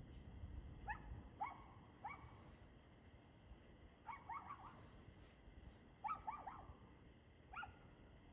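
A dog barking faintly in short, high yaps, each falling in pitch. About a dozen come in small groups: single barks in the first two seconds, then quick runs of three or four around the middle and again later, with a last single bark near the end.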